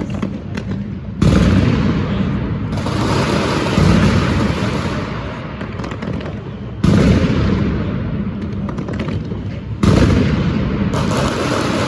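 Fireworks shells bursting: four heavy booms about three seconds apart, each trailing off in a long rolling echo, with a crackling hiss after some of them.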